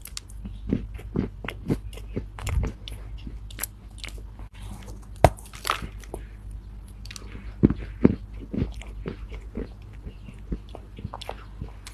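Chunks of Chinese loess being bitten and chewed: a steady run of irregular soft crunches, with a few sharper, louder bites among them.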